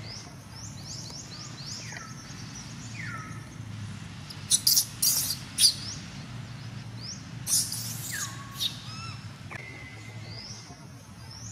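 Birds chirping, with quick rising calls repeated over and over and a few lower falling whistles. Several loud, harsh shrieks break in about halfway through and again a little later.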